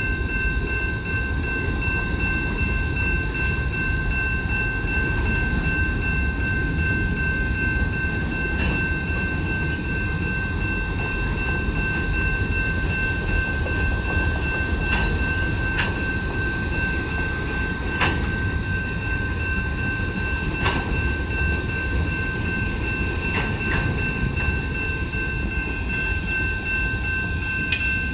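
Freight train cars rolling through a grade crossing: a steady low rumble with a few sharp clanks of wheels over the rail joints. Over it the crossing's warning bell rings, heard as a steady high-pitched tone.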